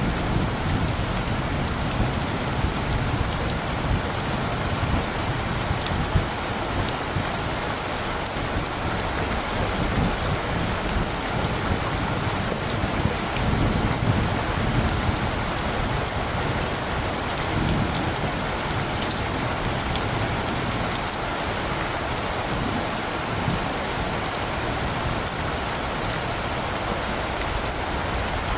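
Steady rain falling, a dense even hiss with many individual drops ticking on surfaces.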